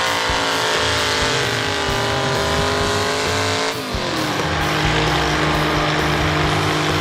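Tractor pull engine running hard under load, its pitch sagging slowly; a little under four seconds in the sound dips briefly and slides down in pitch, then settles into a steadier, lower engine note.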